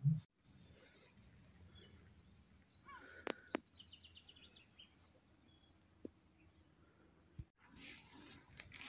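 Faint outdoor ambience with a few short bird calls about three to four seconds in, and a couple of sharp clicks among them.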